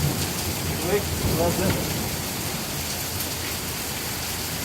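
Steady rain falling, a continuous even hiss, with a faint voice murmuring briefly about a second in.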